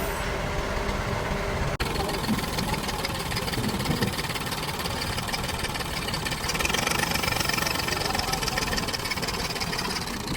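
An engine running steadily, with a brief break just under two seconds in.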